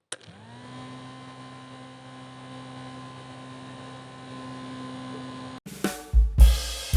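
A small DC-motor fan switched on with a click, spinning up quickly and then running with a steady whirring hum. The hum stops abruptly about five and a half seconds in, and music with drums begins.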